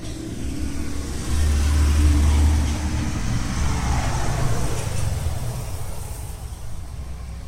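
Low engine rumble of a motor vehicle passing by. It swells about a second in and fades away toward the end.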